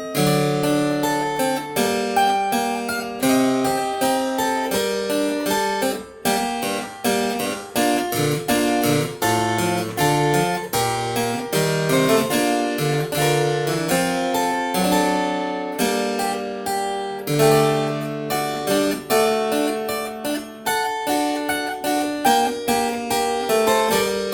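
Solo Italian harpsichord playing an early sonata in quick runs of plucked notes over a moving bass line, with a brief break in the sound about six seconds in.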